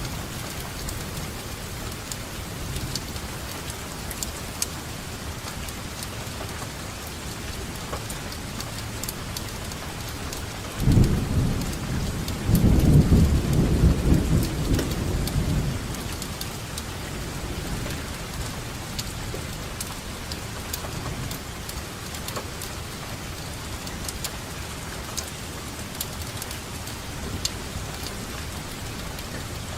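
Steady rainfall with scattered close raindrop ticks. Thunder rumbles low and loud from about eleven seconds in for roughly five seconds, then dies back to the rain.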